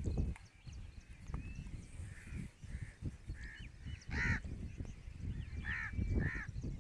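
Birds calling: a series of short harsh calls, the loudest about four seconds in, with faint thin chirps higher up and a low rumbling noise underneath.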